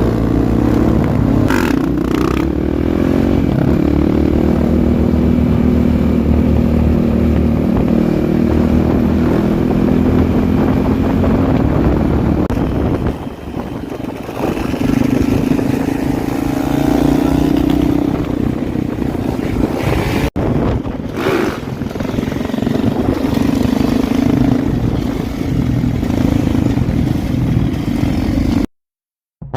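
Dirt bike engine running and revving, its pitch rising and falling several times. It cuts off abruptly near the end.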